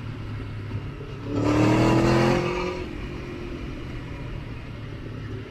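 Motorcycle engine running steadily under way. About a second in, the engine swells into a loud, slightly rising rev for a second and a half, then drops back to its steady running.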